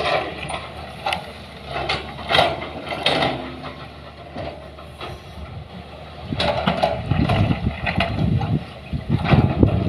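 A vehicle engine running, with scattered clanks and rattles; a heavier, louder rumble sets in about six and a half seconds in.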